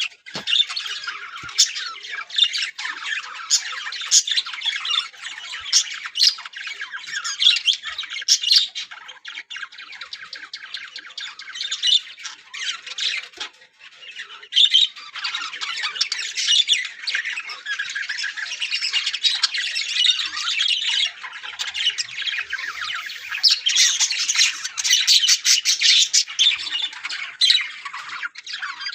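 A flock of budgerigars chattering without pause, with frequent sharp squawks mixed in; the chatter drops briefly about halfway through.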